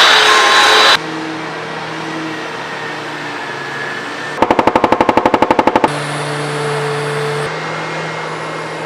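Loud machine blowing noise that cuts off suddenly about a second in, leaving a steady low hum. About halfway through, a loud, fast rattle of clicks, about ten a second, lasts roughly a second and a half.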